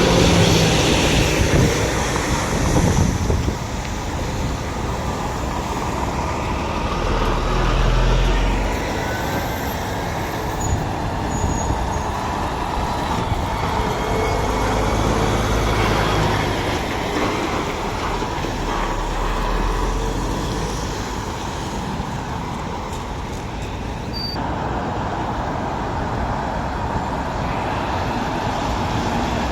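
Steady road traffic with heavy lorries' engines running and passing, low engine hums swelling and fading several times.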